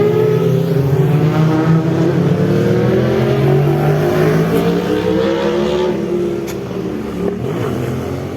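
Motorcycle engines at high revs, the pitch climbing slowly for several seconds, then falling away as the sound fades near the end.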